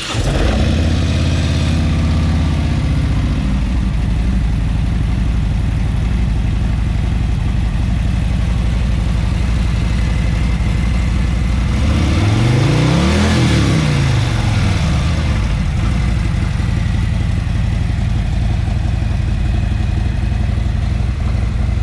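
Harley-Davidson Milwaukee-Eight 107 V-twin in a 2017 Ultra Limited, running through a Screamin' Eagle exhaust. It idles just after start-up, high at first and settling after a few seconds, then is revved once about halfway through, the pitch rising and falling back to a steady idle.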